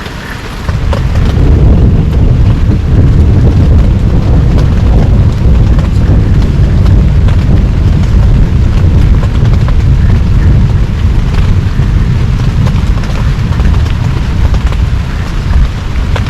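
Heavy rain falling, with a loud deep rumble that sets in abruptly under a second in and carries on steadily under the patter of drops.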